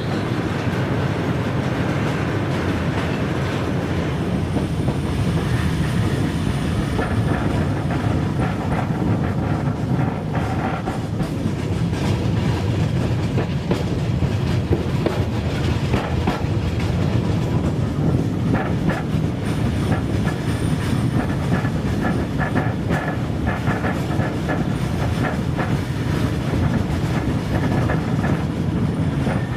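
Railway works train running on the line: a steady rumble with the wheels clicking over the rail joints.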